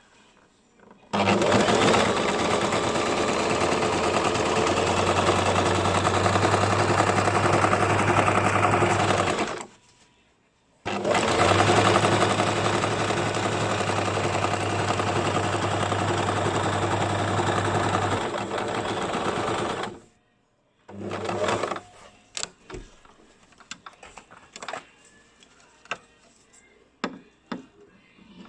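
Basic electric sewing machine stitching fabric in two long steady runs of about eight seconds each, with a short stop between them, then a brief burst of stitching about twenty-one seconds in. After that come scattered small clicks and handling sounds.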